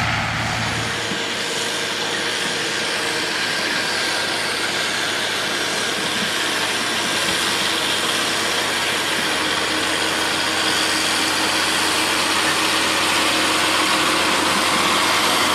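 Steady road and engine noise of a moving vehicle: an even hiss with a faint low hum underneath, without sudden knocks or impacts.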